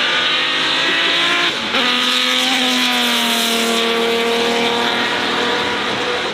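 Performance car engine pulling hard, rising in pitch until a gear change about one and a half seconds in, then falling and holding steadier.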